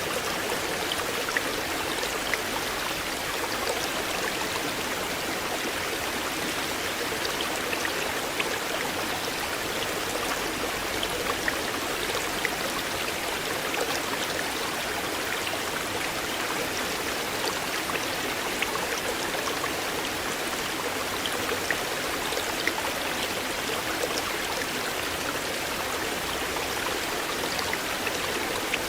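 A shallow river flowing steadily: a constant rushing babble of water with many small splashes and drips.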